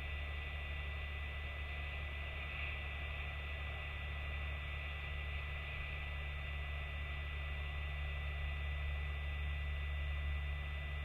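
Steady low hum with an even hiss and a thin, constant high tone, with no distinct sound events.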